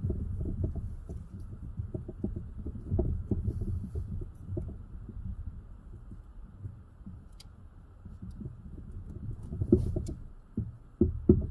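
Irregular low thuds and rubbing from hands working a rubber fuel line onto its fitting, with a few sharp clicks; it is busiest near the end.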